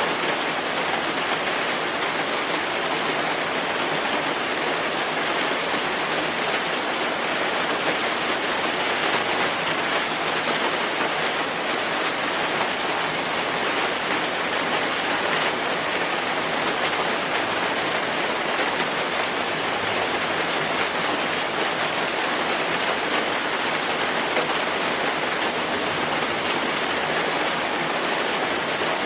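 Steady rainfall: an even hiss of rain on a surface, with scattered taps of single drops, unchanging in level.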